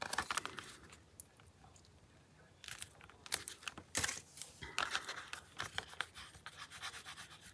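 Paper pages being handled: irregular rustling and crinkling with a few sharp clicks, a brief pause about a second in, then more rustling.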